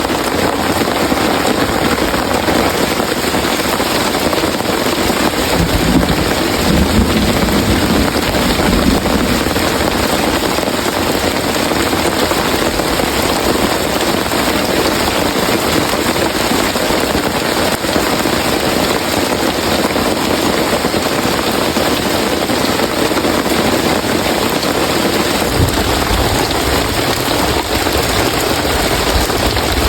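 Heavy rain falling steadily in a rainforest, a dense, unbroken hiss of downpour.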